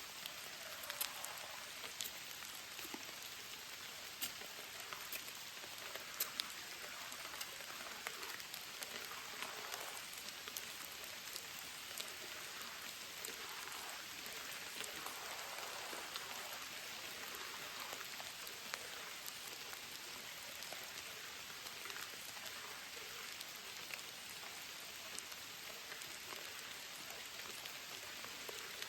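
Steady heavy rain falling, a continuous hiss dotted with many sharp close drop impacts.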